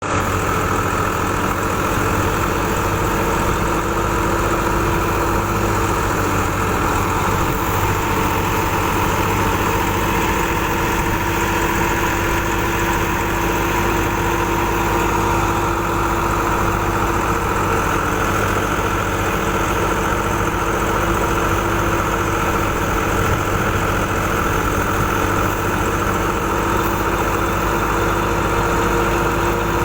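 Massey Ferguson 260 tractor's three-cylinder diesel engine running at a steady speed, driving a wheat thresher, with a constant mechanical hum and several steady tones.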